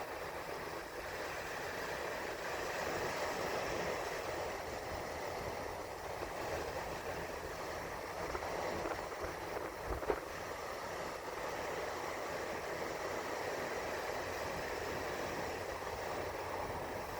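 Steady rushing noise, even throughout, with a single brief knock about ten seconds in.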